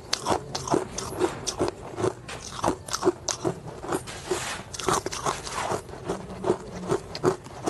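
Ice being bitten and chewed close to the microphone: a steady run of sharp crunches, about three a second.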